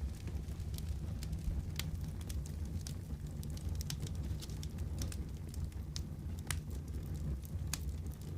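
Wood fire burning in a fireplace: a steady low rumble of flames with sharp, irregular crackles and pops, several each second.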